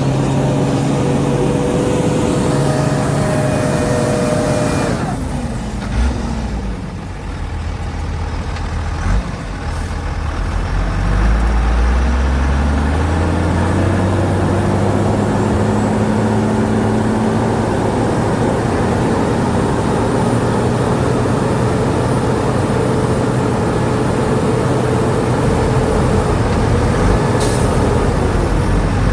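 Heavy diesel engine of earthmoving machinery running hard. It drops in revs about five seconds in, with a couple of clunks, then revs back up and runs steadily again.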